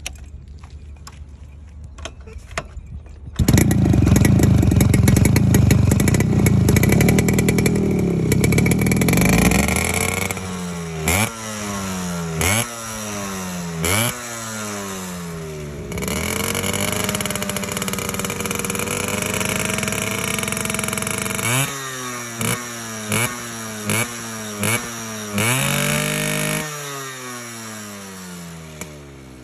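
Motorcycle engine with a sound likened to a Yamaha RX. After a few faint clicks it starts about three and a half seconds in and runs fast. It is then revved in sharp blips that fall back down, held at a steady higher speed, blipped quickly several more times, and drops to a lower idle near the end.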